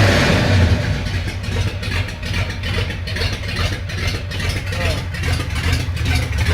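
Freshly built Ford flathead engine in a 1946 Ford pickup, running; it drops back from a rev to a steady idle in the first second.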